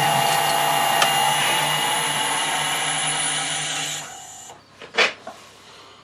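Metal lathe running under power during internal screw cutting, its motor and gearing giving a steady whine that drops slightly in pitch and stops about four seconds in as the lathe is switched off. A single sharp click follows about a second later.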